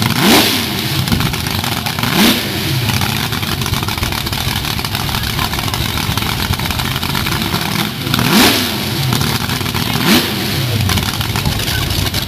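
Car engines running with a steady rumble, revved sharply four times, each rev a quick rise and fall in pitch.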